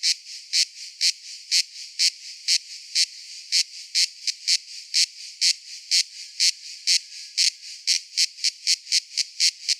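Cicada calling in sharp, evenly spaced pulses, about two a second, over a steady high buzz. The pulses quicken to about three a second near the end.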